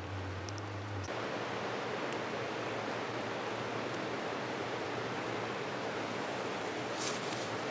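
Steady rain falling, an even hiss that carries on without a break, with a brief sharp sound near the end.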